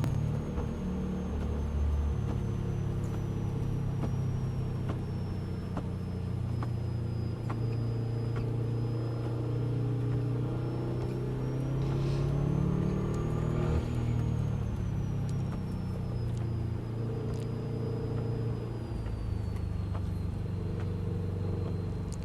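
Car engine running steadily under load, its note rising and falling slowly as the driver works the throttle, with a faint high whine above it.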